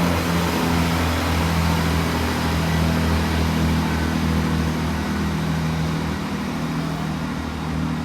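Engine running steadily at an unchanging low pitch, easing off slightly after about six seconds.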